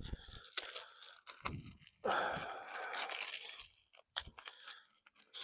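Hands handling the oil filter cartridge and its housing: scattered light clicks and knocks, with a crinkling, rustling stretch lasting nearly two seconds about two seconds in.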